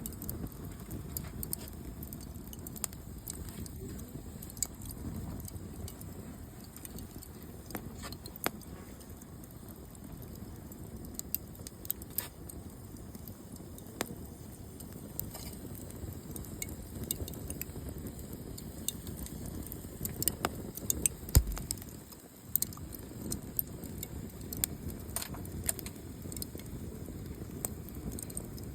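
Wood campfire crackling, with irregular sharp pops and snaps over a low steady rumble of the flames. A single louder low thump comes about three-quarters of the way through.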